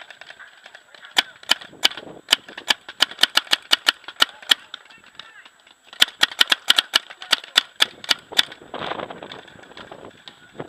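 Paintball markers firing rapid strings of shots, sharp pops about four to five a second, in two long volleys with a pause between, followed by a brief rush of noise.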